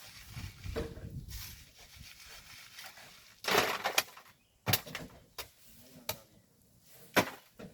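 Hand tools knocking and scraping on volcanic sand and rock: a loud scraping burst about three and a half seconds in, then five sharp knocks spaced under a second apart.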